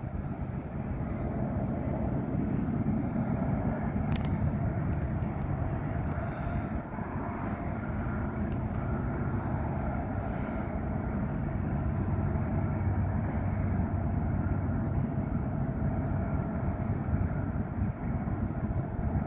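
Diesel locomotives of a Union Pacific train running past with a steady, low engine drone.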